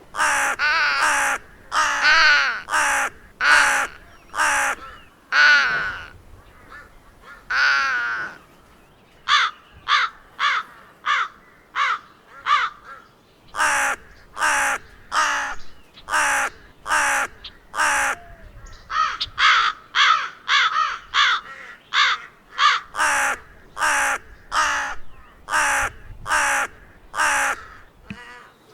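Crow cawing over and over. The first few seconds have longer, drawn-out caws; later come runs of shorter, quicker caws, about two a second.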